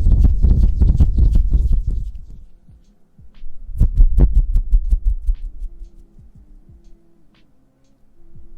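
Hands rubbing together close to the microphone: two bouts of dense, rustling friction with a lull of about a second between them, then a quieter stretch with a faint hum before the rubbing starts again near the end.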